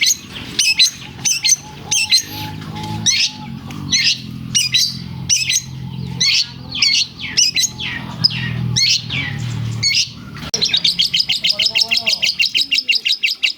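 Long-tailed shrike (cendet) singing loudly: a run of sharp, chattering calls, then for the last three seconds or so a fast, even trill. Its song is laced with imitated lovebird calls.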